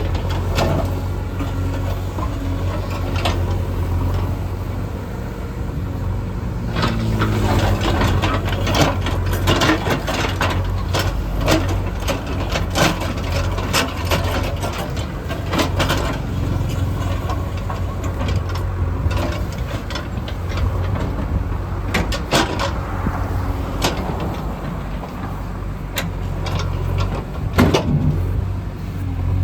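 Heavy diesel construction machinery running steadily, with a low engine hum, repeated metallic clanks and knocks, and the engine note rising and falling briefly about seven seconds in.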